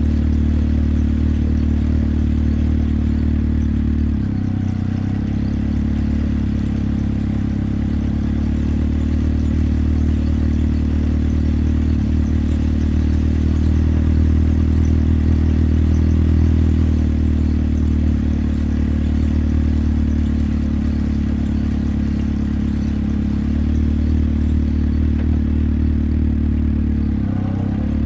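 Motorcycle engine running steadily under way, a low engine note with some wind and road noise over it. The engine note dips briefly twice, about four seconds in and near the end.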